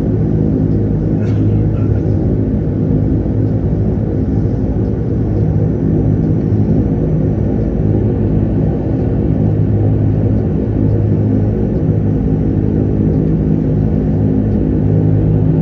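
Dash 8-300's twin turboprop engines running steadily: a loud, even low hum with steady propeller tones.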